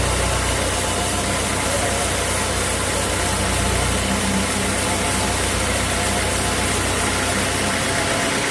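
Sawmill machinery running steadily with a constant low hum under a dense, even noise.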